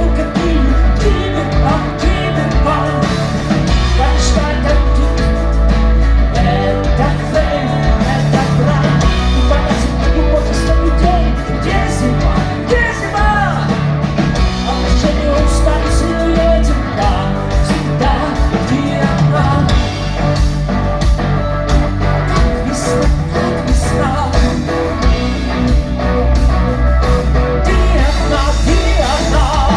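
Rock band playing a song with a singer, loud and steady, with a heavy bass line and sung vocals throughout.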